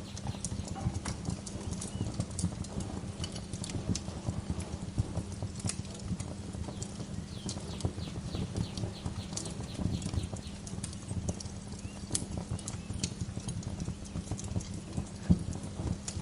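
Wood fire crackling in a fireplace: a dense, irregular run of small pops and snaps, some sharper and brighter, over a steady low rumble.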